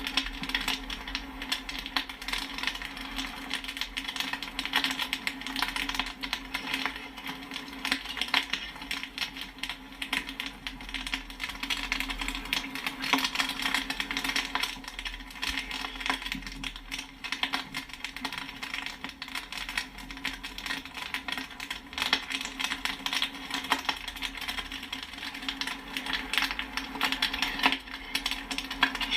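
Popcorn kernels popping in a rapid, continuous crackle of many small pops and pings, at a steady rate, over a low steady hum.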